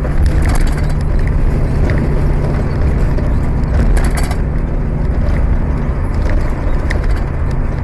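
Ford Mustang's engine running at fairly steady revs, heard from inside the cabin while driving, with a few short clicks over it.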